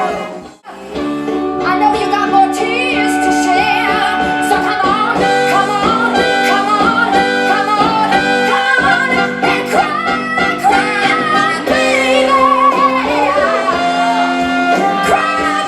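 Women singing a 1960s pop song with a live band, a cut about half a second in.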